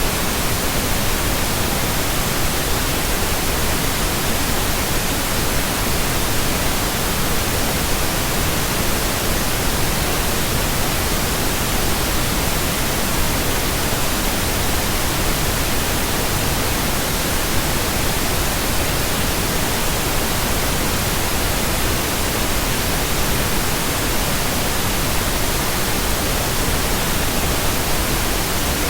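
Steady, even pink noise: a continuous synthetic hiss spread across the whole frequency range, unchanging throughout.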